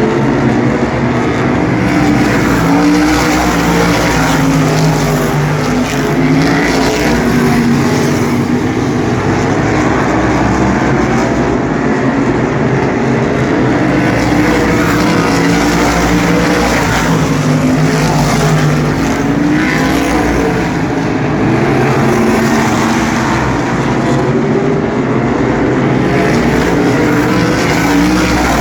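A field of sprint cars racing around an asphalt oval: several engines at once, their pitch rising and falling again and again as the cars come by and go through the turns.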